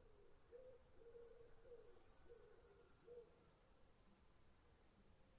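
Faint nature soundscape: crickets chirping in a steady, even pulse, with a string of low, repeated bird calls beneath them and a high hiss that swells in the first half and then fades.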